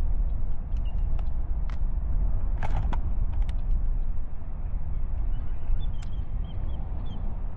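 Low, fluctuating rumble of wind buffeting the microphone, with a cluster of sharp clicks about three seconds in.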